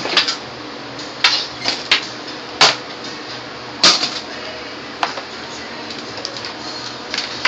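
Irregular sharp clacks and knocks of hard objects being handled and set down, about eight in all, loudest a little under three seconds in and again about a second later.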